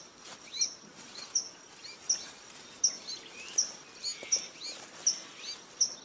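A bird calling over and over, a short high chirp about every three-quarters of a second, against faint outdoor background noise.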